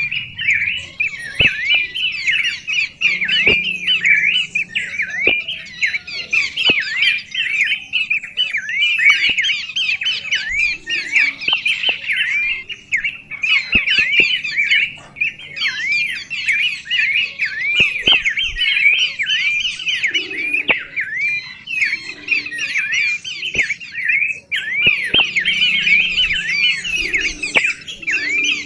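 Birds chirping rapidly and without letup, many short swooping notes overlapping in a dense chatter, with brief lulls about halfway through and again near the end.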